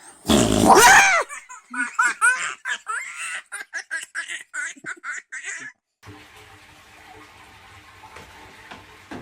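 A baby laughing: a loud squealing laugh, then a run of short giggling bursts, several a second, for about five seconds. It cuts off suddenly, leaving a faint steady background hiss and hum.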